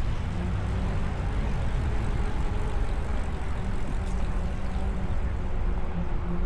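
Steady wind rumble on the microphone of a camera riding along on a moving e-bike, with road and tyre noise underneath.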